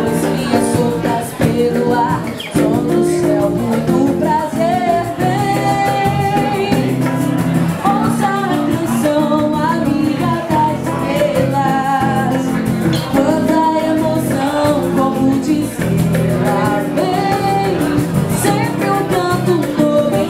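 A song: a voice sings a melody over steady instrumental accompaniment that includes guitar.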